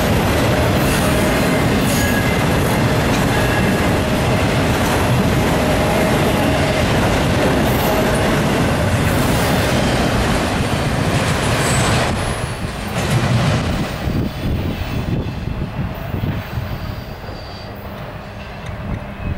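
Norfolk Southern freight train's autorack cars rolling past at close range: a steady rumble and clatter of steel wheels on rail. About twelve seconds in the last cars go by and the sound drops away as the train recedes.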